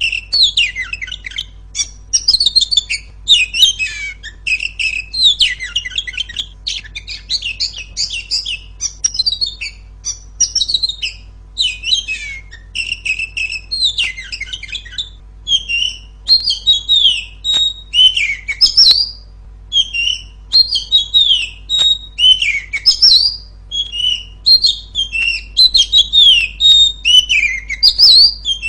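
Female Oriental magpie-robin singing loudly: a rapid, unbroken string of varied whistled and chattering phrases with short pauses between them, over a faint steady low hum.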